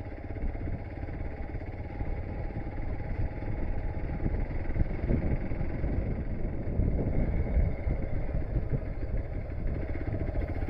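Hero Xpulse dual-sport motorcycle running while riding over a rough off-road track, its engine note mixed with a continuous uneven rumble. It grows a little louder after the first couple of seconds.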